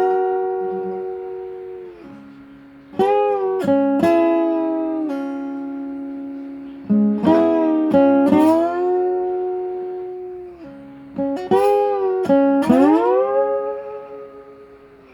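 Solo guitar playing slow blues phrases. Each group of notes glides up into pitch, then rings and fades, with a fresh phrase every few seconds.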